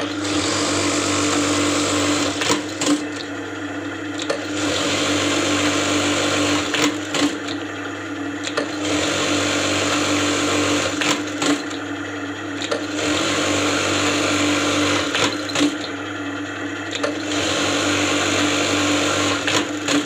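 Juki industrial buttonhole machine running through about five buttonhole cycles in a row: each a couple of seconds of fast stitching, separated by short dips with sharp clicks, over a steady motor hum.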